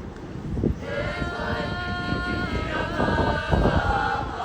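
A group of Māori children singing together, coming in about a second in and holding long notes that step from pitch to pitch. A low rumble, like wind on the microphone, runs underneath.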